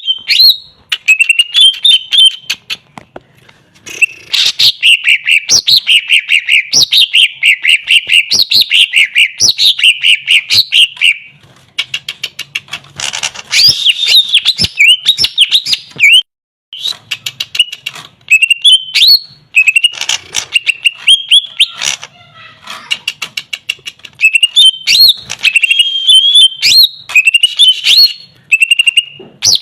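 Cucak ijo (greater green leafbird) singing loudly in long runs of fast, varied, whistled and chattering phrases, broken by short pauses, with sharp clicks between them. It is the lively full song that bird keepers play as a lure to set a silent bird singing.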